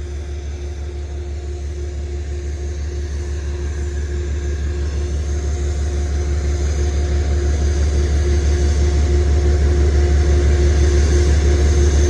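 Amtrak train's diesel locomotive approaching, its engine's low throbbing rumble and steady hum growing steadily louder.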